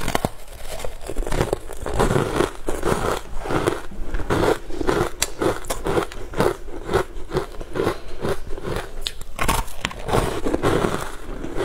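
Biting and crunchy chewing of a frozen, powder-coated food stick, a steady run of crunches about twice a second with sharp crackles among them.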